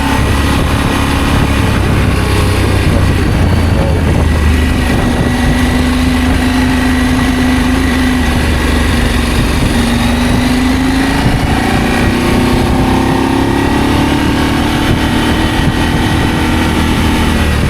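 Adventure motorcycle engine running under way at a fairly steady speed, its note drifting gently and rising a little near the end, over a constant low rumble.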